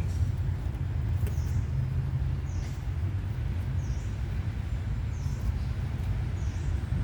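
Steady low rumble, with a bird's short falling chirp repeated five times, about every second and a half.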